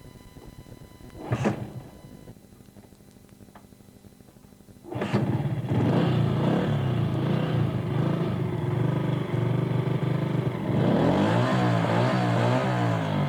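A sound-effect recording of a motor-vehicle engine: it cuts in suddenly about five seconds in and runs loudly, then revs up and down repeatedly near the end. A short loud burst comes about a second and a half in.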